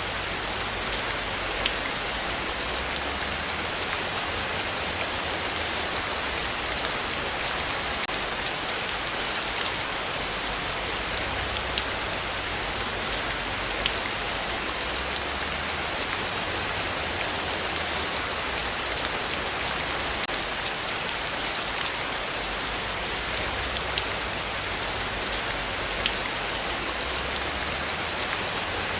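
Heavy rain falling steadily, with individual drops ticking sharply here and there over the even hiss.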